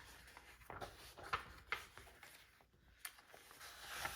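Quiet handling of paper and craft supplies on a work table: soft paper rustling and a few light taps and clicks.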